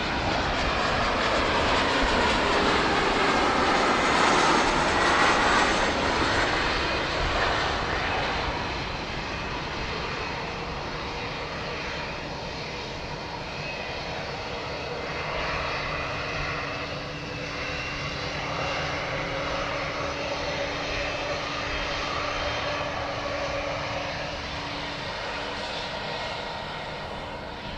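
Jet airliner engines close by, loudest about five seconds in, then easing off into a steadier, quieter rumble with a faint steady hum.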